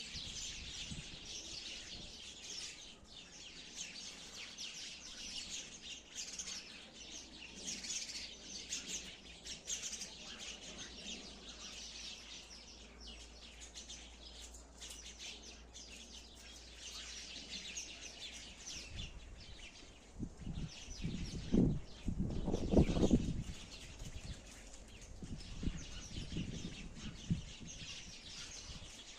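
Sparrows chirping continuously, many high chirps overlapping. Around three-quarters of the way through, a couple of seconds of loud low thumping noise cuts in over the chirping.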